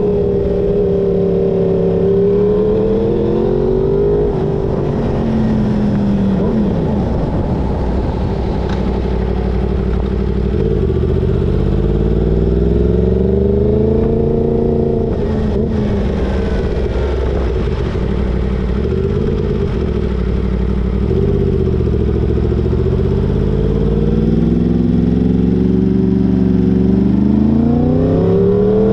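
Yamaha crossplane inline-four motorcycle engine under a riding load, its revs climbing and dropping again and again as the rider accelerates and backs off.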